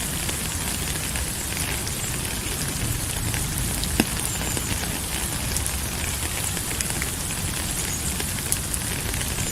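Steady rain falling, an even hiss with scattered drops and one sharper tap about four seconds in.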